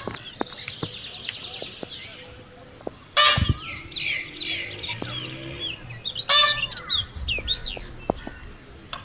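Several birds chirping and calling: a fast trill in the first two seconds, many short chirps, and two loud harsh squawks about three and six seconds in.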